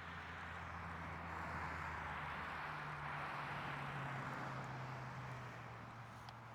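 A motor vehicle driving past: tyre and road hiss swells and fades while the engine hum drops in pitch as it goes by. A small click comes near the end.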